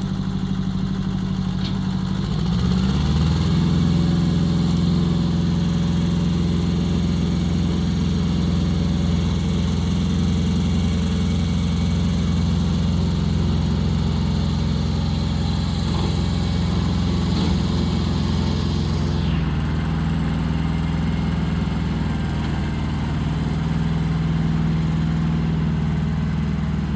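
Tractor engine running steadily. Its pitch and loudness step up about two and a half seconds in, and it shifts again a little past the middle.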